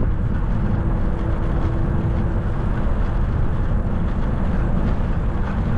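Wind buffeting the microphone of a camera on a moving bicycle, a loud, fluttering rumble, with a faint steady hum for the first few seconds.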